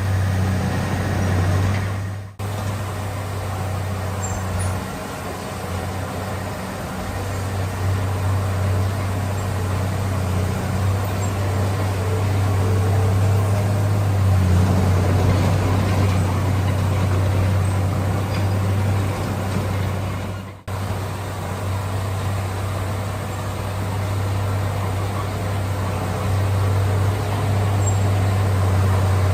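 Heavy diesel engine of earthmoving equipment running steadily under load, a deep continuous drone. The sound cuts out for an instant twice, about two seconds in and again about twenty seconds in.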